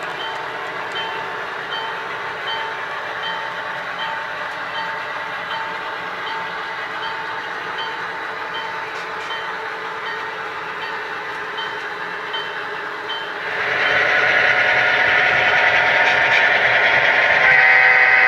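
Sound-equipped HO-scale model diesel locomotive: its bell dings steadily about twice a second over the engine sound, and about thirteen seconds in a loud, sustained horn starts sounding.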